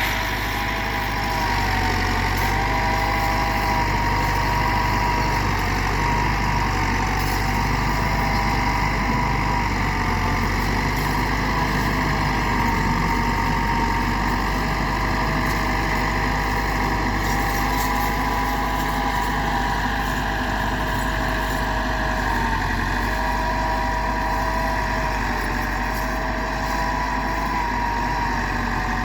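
Massey Ferguson 385 tractor's diesel engine running steadily, with a higher whine that steps up and down in pitch every few seconds.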